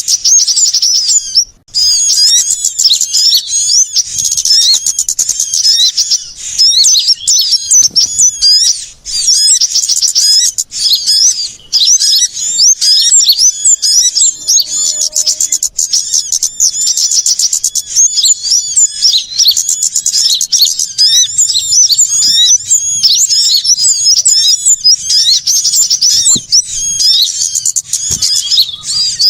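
A dense chorus of small songbirds chirping and twittering rapidly and noisily, a bird-lure recording that mixes many small birds calling excitedly. There is a brief break about a second and a half in.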